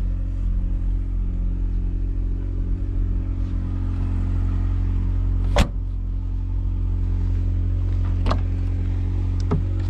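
A car engine idling with a steady low hum. A little past halfway there is one sharp knock, and near the end a lighter click as an outside door handle is pulled and the latch releases.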